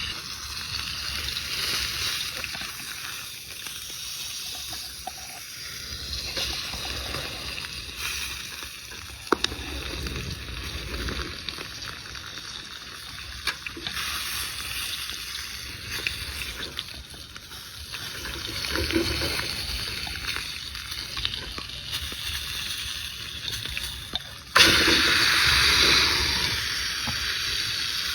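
Water sloshing and splashing, with scattered small clicks. About 25 seconds in, a sudden louder sizzle starts.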